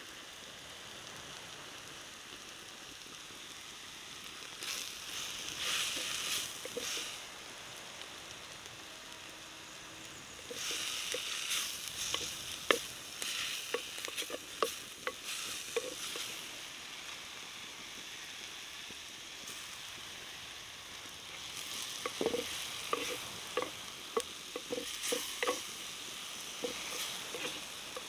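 Vegetables sizzling in a clay pot over a wood fire, stirred with a wooden spoon. The sizzle swells in three spells, a few seconds in, in the middle and near the end, with short knocks and clicks of the spoon against the pot.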